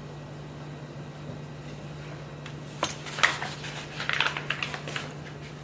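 Light clicks, knocks and rustles of kitchen handling, scattered through the second half, over a steady low hum.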